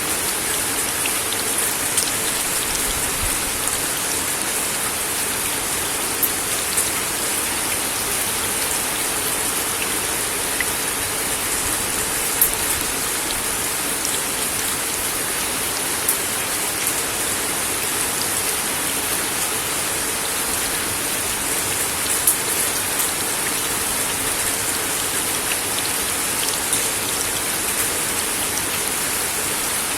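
Steady rain falling on a wooden deck, an even hiss with scattered louder individual drops ticking on the boards.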